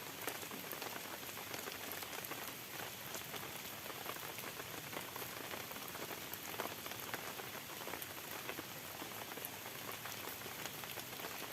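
Steady rain falling: an even hiss dotted with the ticks of many individual drops.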